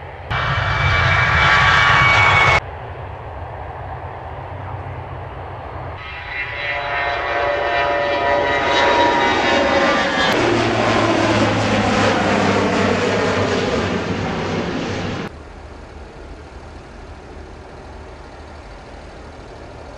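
Airliner engines heard in several short, abruptly cut clips. First comes a brief loud burst of high engine whine. From about six seconds in, a plane passes close, its sound building and the whine falling in pitch as it goes by. It cuts off suddenly, leaving a quieter steady engine noise.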